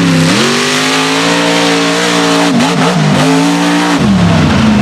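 Mega truck engine running hard at high revs. Its pitch climbs about a quarter second in and holds. It dips briefly midway as the throttle comes off and on again, then falls away near the end.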